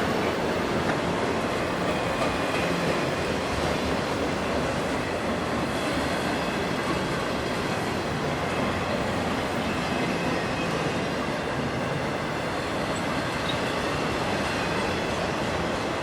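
A freight train rolling past on the rails: a steady rumble of wheels and cars, with a faint high squeal from the wheels.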